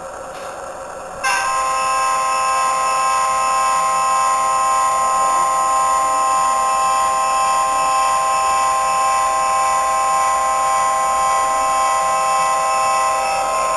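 Model EMD SD40-2 locomotive's sound decoder playing a long air-horn blast through its small speaker: a chord of several steady tones that starts suddenly about a second in, holds for about twelve seconds and stops near the end, over the steady diesel engine sound.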